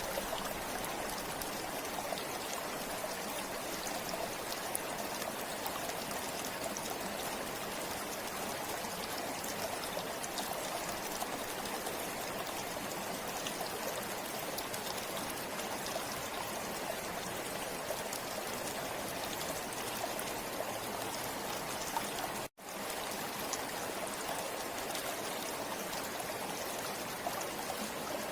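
Forest river flowing steadily: an even rush of running water with a light trickle. The sound drops out for a split second about three quarters of the way through, then fades back in.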